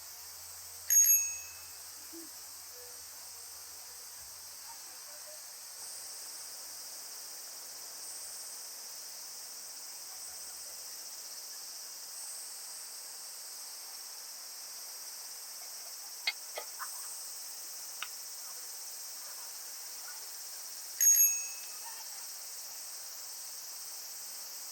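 Steady high-pitched chirring of insects, with two bright bell-like dings, one about a second in and one near the end, and a few light clicks in between.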